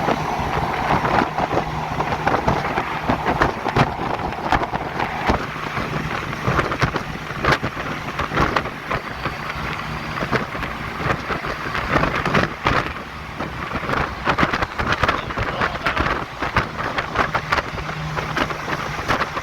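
Ride in a moving semi truck: a dense, irregular crackling and buffeting noise, like wind or rain hitting the cab and microphone, over a faint low engine hum that shows most near the start and end.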